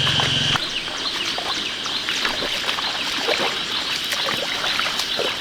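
Irregular splashing and sloshing in shallow muddy water, with many short wet crackles. A steady hum cuts off about half a second in.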